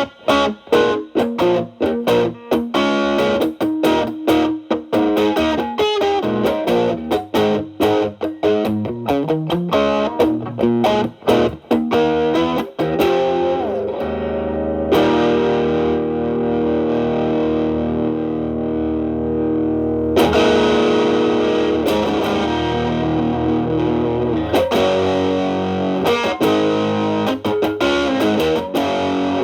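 Telecaster electric guitar played through an MXR Distortion+ stacked with a Boss SD-1 overdrive into a Marshall Valvestate amp's clean channel, giving a distorted tone. Quick picked single notes for the first half, then long ringing chords struck about halfway through and again two-thirds in, where the MXR's distortion knob is turned to 12 o'clock.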